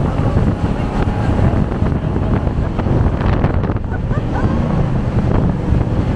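Wind buffeting the microphone aboard a jet boat under way, over the rush of water and the boat's engine.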